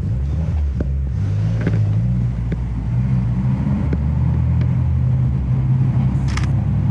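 A car engine running at low revs close by, its hum shifting in pitch a few times, with a few faint clicks and a short hiss about six seconds in.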